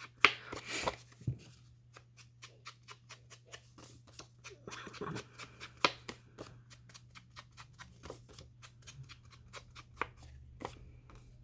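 Paper and card pieces being handled and sorted by hand: a run of small crisp rustles and ticks, loudest in the first second, over a steady low hum.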